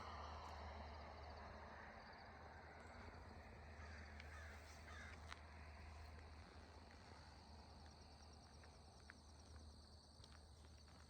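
Near silence, with faint bird calls and a low steady hum.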